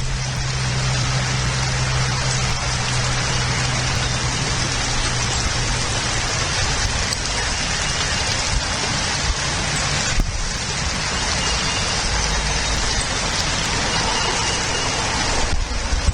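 Steady even hiss, rain-like, with a low hum underneath during roughly the first half.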